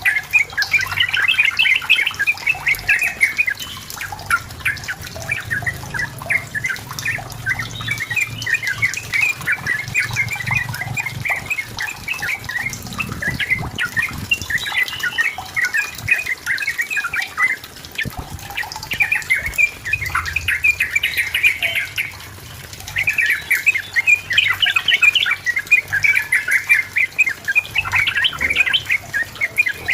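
Yellow-vented bulbul (trucukan) singing in long, rapid runs of bubbly, chattering notes, with a brief pause about two-thirds of the way through.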